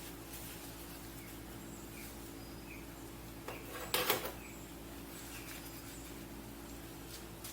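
Steady low hum with a few faint, short high chirps; about four seconds in, one brief clatter of a part or tool being handled during work on a jet ski pump.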